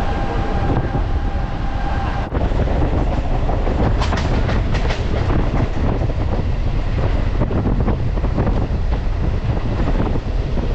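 Ride noise of a MEMU electric train running along the line: a steady rumble of wheels on rail, with clacking over rail joints that comes in clusters of sharp clicks.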